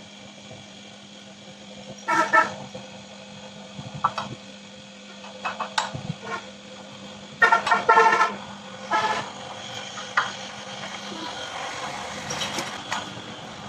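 Steady hum of a running lathe, with vehicle horns honking in short blasts about two seconds in and again, several times, around eight seconds.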